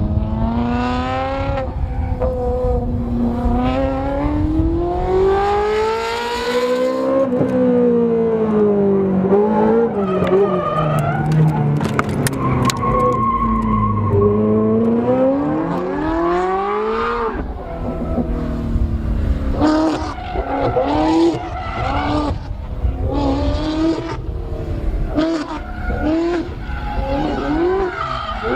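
Ferrari 360 Modena's V8 through a Capristo exhaust, being driven hard: the revs climb and fall repeatedly in long sweeps. In the last third they turn to a series of short, quick rises and drops.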